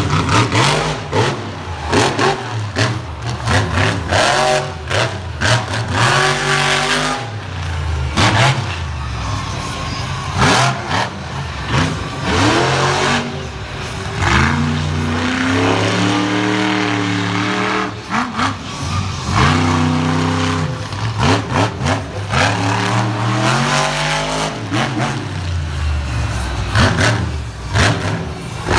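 Monster truck engine revving hard through a freestyle run, its pitch climbing and falling again and again, with many short sharp cracks and knocks mixed in.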